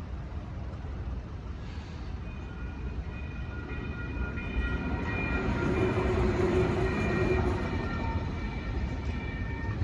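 A CAF light rail train passing through a street crossing. Its steady low rumble grows louder toward the middle and later part, and high steady whining tones join in from about two seconds in.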